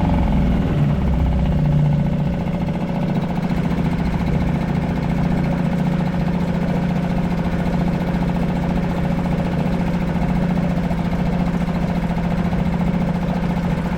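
Suzuki 2.5 HP DF four-stroke outboard running steadily in a test bucket of cooling water, its exhaust discharging into the water.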